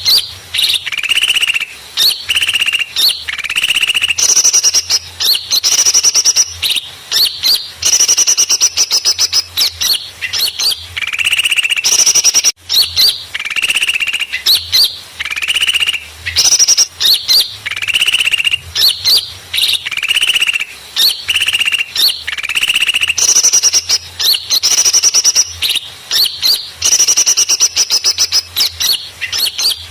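A bird-trapping lure recording of many small birds calling noisily at once: loud, dense, overlapping chirps and rapid trills with only brief gaps.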